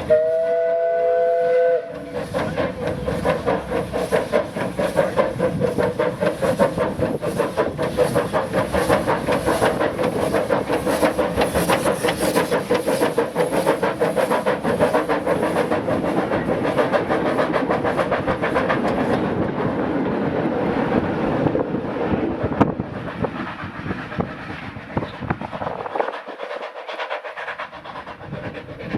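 Steam locomotive whistle blowing for about two seconds, then the locomotive working away with a steady run of exhaust beats that fade toward the end.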